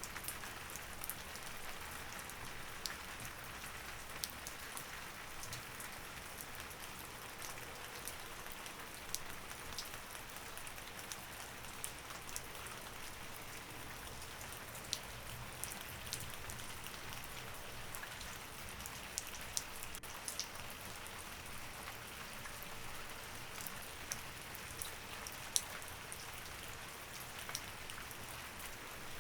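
Steady rain falling on a surface, with scattered sharp ticks standing out about once a second.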